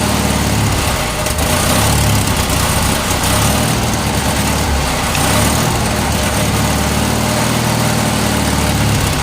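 John Deere 317 garden tractor engine running steadily just after a cold start, its low engine note wavering slightly without any revving.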